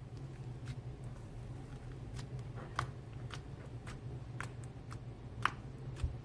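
Scattered small sharp clicks, irregularly spaced, over a steady low hum.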